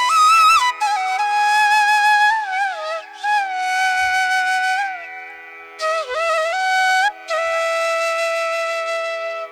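Flute playing a slow melody of held notes with sliding, bending ornaments between them, over a steady drone.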